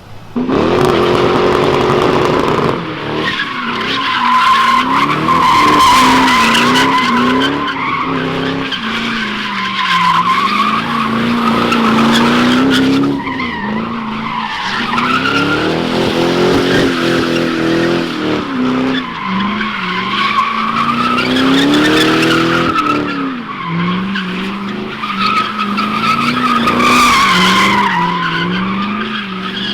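Pontiac GTO's V8 revving hard while its rear tyres squeal on and on through donuts; the engine pitch climbs and falls again and again. It starts suddenly about half a second in.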